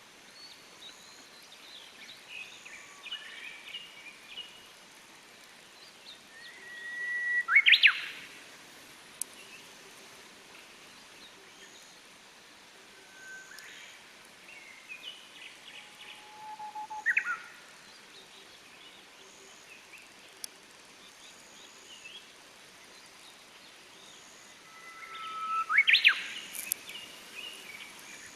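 Japanese bush warbler (uguisu) singing its 'hoo-hokekyo' song three times, about nine seconds apart: each song is a long held whistle that ends in a quick rising-and-falling flourish. Smaller birds chirp softly between the songs.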